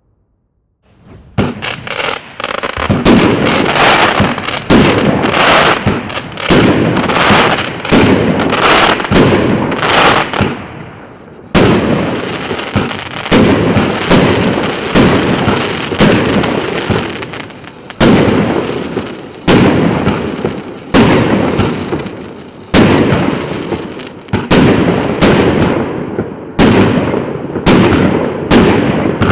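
A 25-shot consumer firework cake with 1.25-inch tubes, firing shot after shot, starting about a second in. Each shot is a sharp bang that trails off over about a second, coming roughly once a second.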